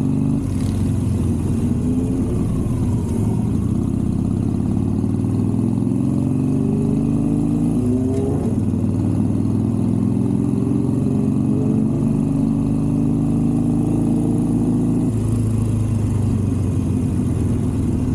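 Superbike engine running under load, its pitch climbing slowly over several seconds, then dropping abruptly about eight seconds in and again near the end before climbing once more.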